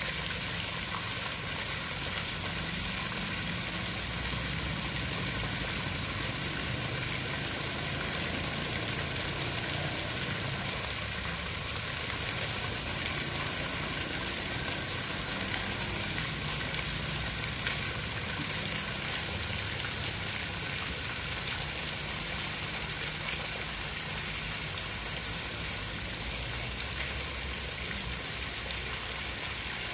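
Steady rain falling: an even hiss with faint scattered drop ticks and a low rumble underneath.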